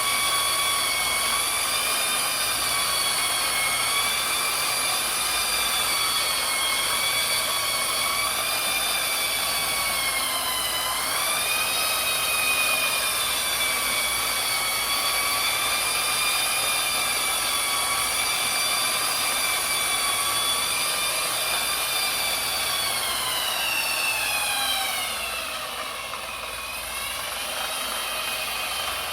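Electric motor whining at a steady pitch. The pitch sags briefly about ten seconds in, then slides down near the end and climbs back up, as the motor slows and picks up speed.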